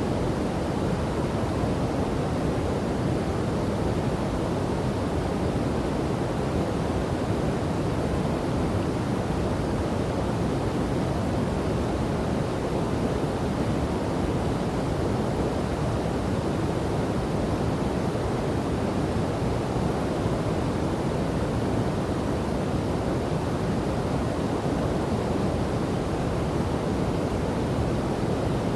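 River and waterfall water rushing, a steady, even, deep-toned noise with no breaks or changes.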